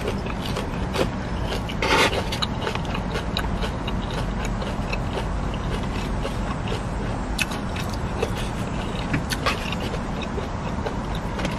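Close-up chewing and crunching of crispy fried Vietnamese imperial rolls: a run of short crunches, the loudest about two seconds in, over a steady low rumble in the background.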